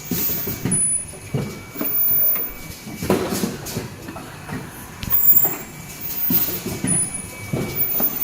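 Richpeace N95 cup mask machine running its automatic cycle: repeated mechanical clattering strokes, with louder surges every few seconds and short high-pitched tones as the head straps are welded.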